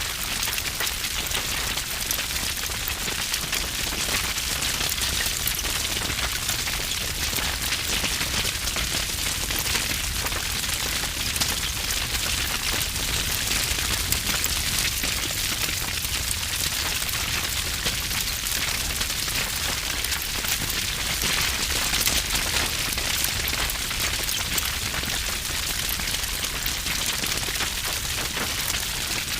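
Wood fire burning with heavy, dense crackling: a constant stream of sharp pops and snaps over a steady hiss.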